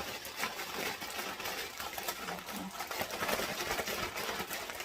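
Plastic bag holding raw chicken crinkling and rustling continuously as it is squeezed and worked by hand to mix in seasoning and oil.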